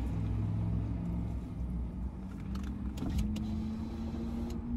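Car engine idling, a steady low hum heard from inside the cabin, with a few faint clicks and rustles about three seconds in.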